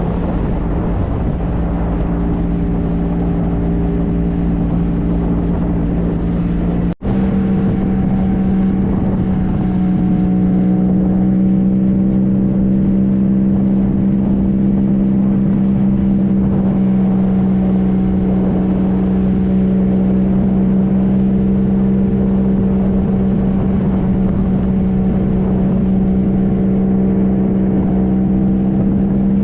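2013 Triumph Trophy SE's inline three-cylinder engine running at a steady cruise. The sound cuts out for an instant about seven seconds in, then carries on at a slightly higher, steady pitch.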